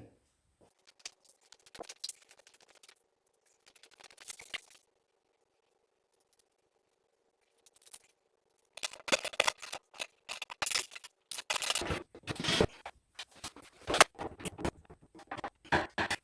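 Wooden closet-drawer parts being handled and fitted together, with scattered clicks and light scrapes at first. From about nine seconds in come many sharp knocks and clatters.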